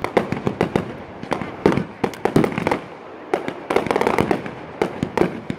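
Aerial fireworks going off in quick, irregular succession: sharp bangs mixed with crackling, with a thicker cluster of reports around four seconds in.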